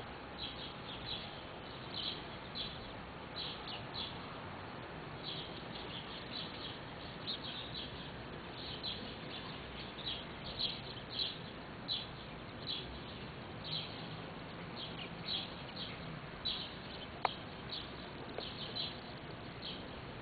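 Bird chirping over and over: short high chirps, often in quick pairs, against a steady background hiss. One sharp click late on.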